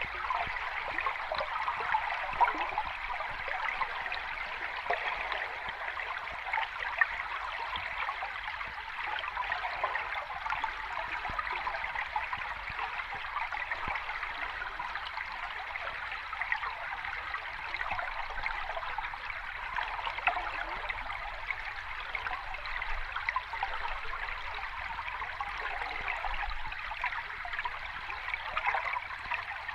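Sea water washing close over the shore: a steady bubbling, fizzing wash thick with tiny crackles, without distinct breaking waves.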